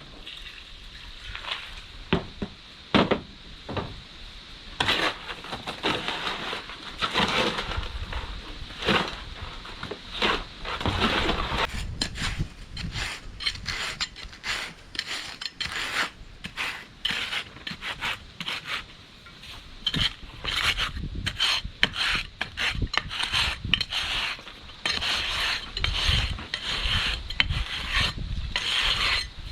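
A tool scraping and working wet Quikrete concrete as it is mixed and packed into a steel car rim, in irregular rasping strokes.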